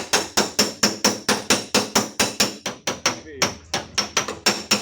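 Hammer tapping out a dent in the steel tailgate of a Daihatsu Xenia, about four quick metallic strikes a second, each ringing briefly. There is a short pause about three seconds in.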